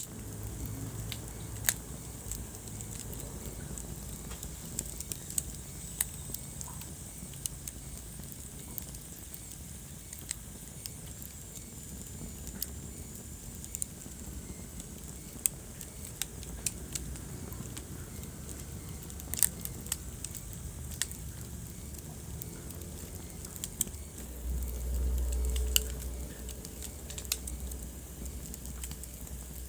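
Wood fire crackling in a fireplace: irregular sharp pops and snaps over a steady hiss, with a low rumble for about two seconds near the end.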